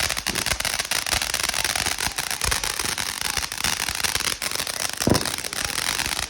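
Firework going off in a dense, continuous crackle: a rapid run of many small pops and bangs over a steady hiss.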